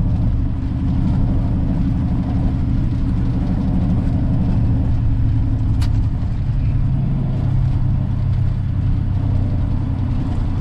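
Peterbilt 379 semi truck's diesel engine running at low speed, heard from inside the cab as a steady low hum whose pitch shifts slightly, with a single sharp click a little past the middle.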